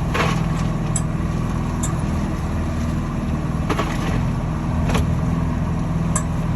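Boat's outboard motor running steadily underway, with water and wind noise over it and a few brief knocks.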